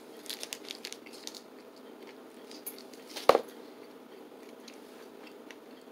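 A person biting and chewing a smoked beef and pork snack stick: small wet mouth clicks, one sharper click about halfway through.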